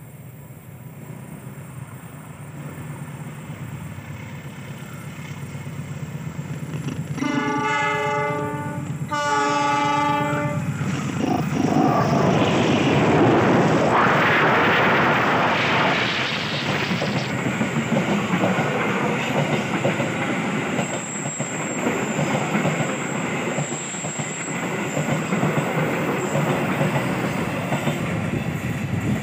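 A KAI CC 206 diesel-electric locomotive approaches with a growing rumble. It gives two blasts on its multi-note horn, about seven and nine seconds in, then passes close by, followed by its passenger coaches rolling past on the rails.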